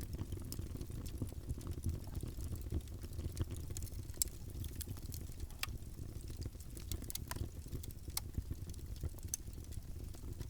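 Wood fire burning in a fireplace: a steady low rumble of the flames with irregular sharp crackles and pops, a handful of them louder.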